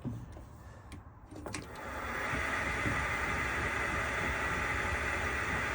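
A click about a second and a half in, then a metal lathe runs up and keeps running with a steady whirring hiss, taking a light finishing cut on a model engine's cylinder cap.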